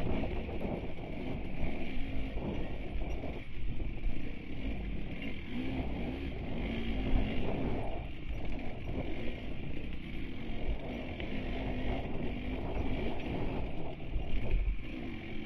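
KTM enduro dirt bike engine running at low to moderate revs, its pitch rising and falling as the throttle is worked, with wind and rumble around it.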